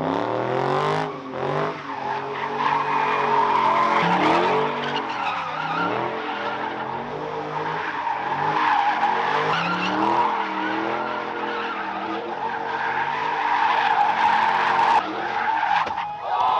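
A car engine revving hard, its pitch rising and falling again and again, over continuous tyre squeal, as in a burnout. The sound changes abruptly near the end.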